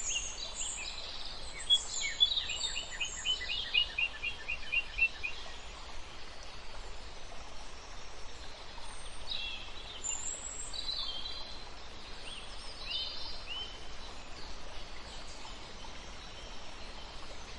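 Small birds chirping, with a quick run of short repeated chirps a couple of seconds in and more scattered high calls later, over a steady background hiss.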